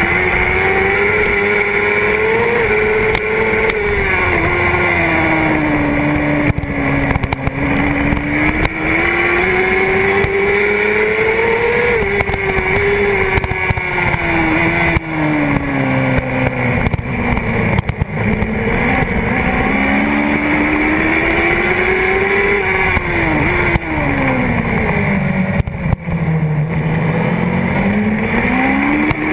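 Honda CBR600RR's inline-four engine at racing revs, heard from a camera on its fuel tank. Its pitch climbs and falls several times as the bike accelerates and brakes. The deepest drop comes a few seconds from the end, and the engine then climbs again hard.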